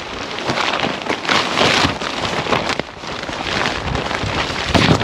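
Rustling and crinkling of tent fabric being handled, in irregular swells.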